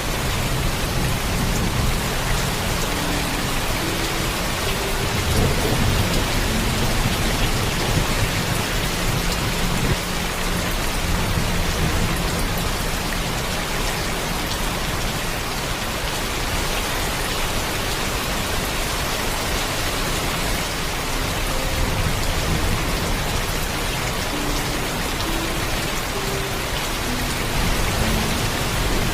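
Heavy, steady rainfall with low thunder rumbling underneath. The rumble is strongest in the first ten seconds or so and swells again near the end.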